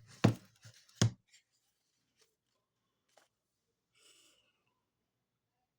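A picture book being handled close to the microphone: several sharp knocks and taps in the first second, then quiet apart from a faint rustle about four seconds in.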